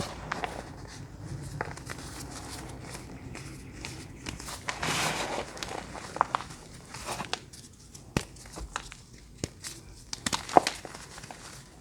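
Close-miked crunching of crunchy bars: scattered sharp cracks and crackles, with a longer crunch about five seconds in.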